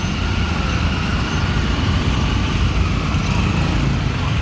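Busy city street traffic of motorbikes, cars and tuk-tuks, with a steady engine rumble.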